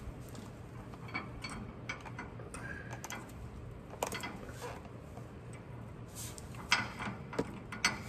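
Small metal clicks and clinks of nuts, lock washers and hand tools being handled while the drive shaft's carrier bearing is fitted, with a few sharper clicks near the end.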